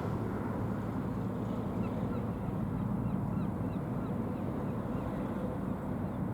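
A series of short bird calls about two seconds in, over a steady low rumble of ship engines and wind on the microphone.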